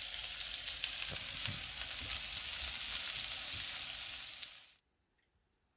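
Potatoes and onions frying in butter in a pan on a propane stove, a steady sizzle with fine crackles. The sizzle cuts off suddenly near the end.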